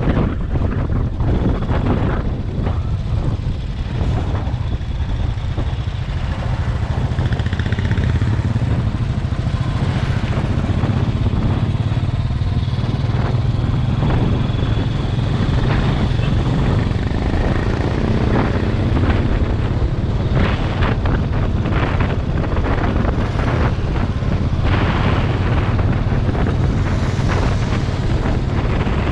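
Motorcycle engine running steadily on the move, a continuous low drone with a rushing noise over it.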